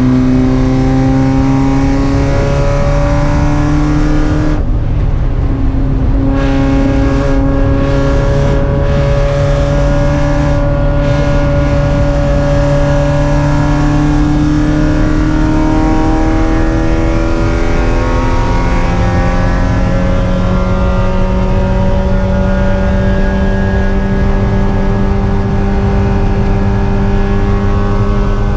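Spec Miata race car's four-cylinder engine running hard, its note climbing slowly under acceleration. About five seconds in the note breaks off and drops for a second or so, then climbs again in several more long, gradual rises.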